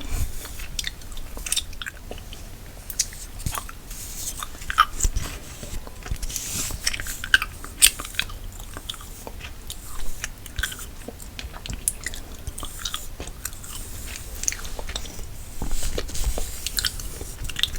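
Gum chewing close to the microphone: irregular sharp clicks and smacks, several a second.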